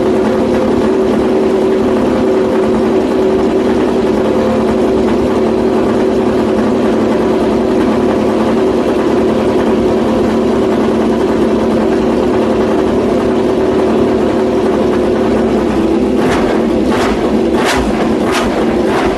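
Honda RC213V MotoGP bike's 1000cc V4 engine running at a steady speed. Near the end it is joined by a run of sharp cracks about twice a second.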